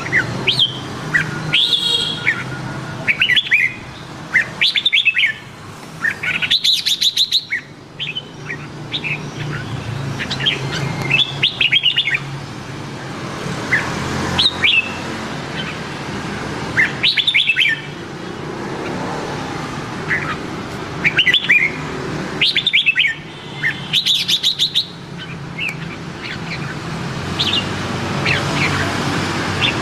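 Red-whiskered bulbul singing: short, bright warbled phrases repeated every two to three seconds, with a low steady hum beneath.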